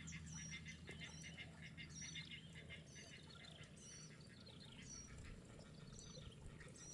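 Faint bird calls: a short high note repeated about once a second over a rapid, dry chattering.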